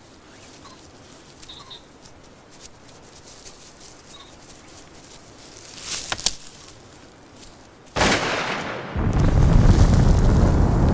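Shotgun fire: a sharp crack about six seconds in, then a louder blast at about eight seconds that rings away and gives way to a loud, heavy rushing noise that carries on. Faint bird calls sound over quiet woodland before the shots.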